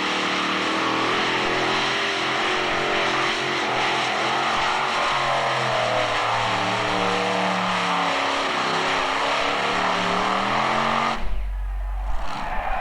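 Modified pulling tractor's engine running loud at high revs, its pitch wavering up and down, as it makes a pull. The sound breaks off suddenly about eleven seconds in, leaving a brief low hum.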